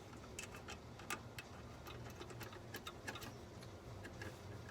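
Light, irregular clicks and taps, a few a second, from small parts being handled while a throttle linkage is fitted, over a faint low steady hum.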